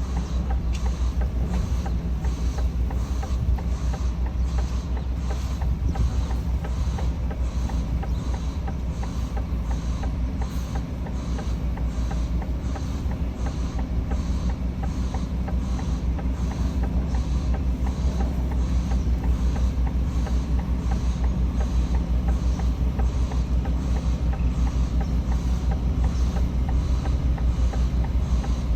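HGV truck's diesel engine idling steadily, with a regular ticking about one and a half times a second.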